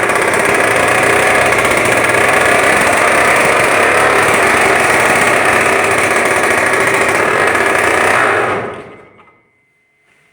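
Engine of a DT-75 crawler tractor running loudly and steadily on its first start after an overhaul. It stops about eight and a half seconds in and dies away over a second.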